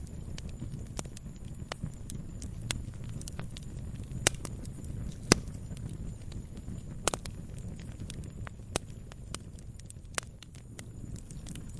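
Campfire crackling: irregular sharp pops and snaps of burning wood over a steady low rumble, the loudest pop about five seconds in.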